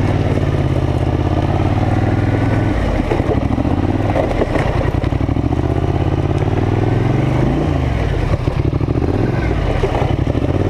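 Polaris Scrambler 850 ATV's twin-cylinder engine under load, the revs rising and falling, with a few short knocks about three to five seconds in.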